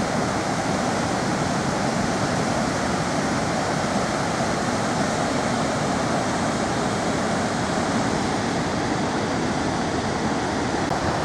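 Goðafoss waterfall: a steady, unbroken rush of falling water.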